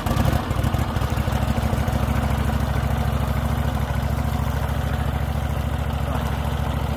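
An engine running steadily at a constant speed, with an even, rapid pulse and a strong low-pitched hum.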